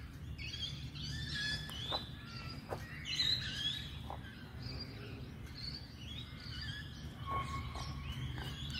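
Songbirds chirping and singing, many short rising and falling calls overlapping, over a steady low background rumble.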